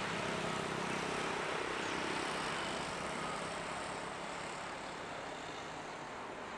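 Jet noise from a Boeing 777-300ER's twin GE90 turbofans as the airliner climbs away after take-off. It is a steady broad rushing rumble, fading slowly.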